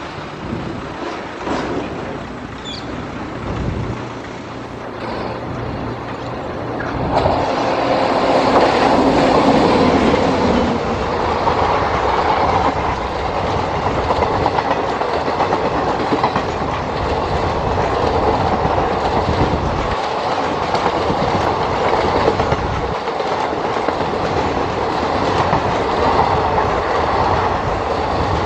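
Indian Railways express passenger train, hauled by a WAP7 electric locomotive, running through at speed. The noise builds as it approaches and jumps sharply louder about seven seconds in as the locomotive passes close. After that the steady rumble and clatter of the coaches' wheels on the rails carries on as the rake goes by.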